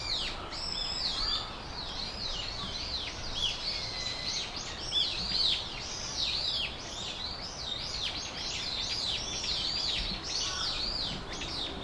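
Small songbirds chirping continuously, many short arching notes overlapping one another like a calling flock, with a brief very high, thin call about a second in.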